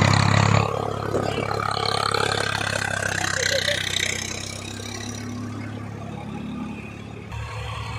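Tractor diesel engine running steadily. It is loudest for the first half second, then drops to a lower, even level.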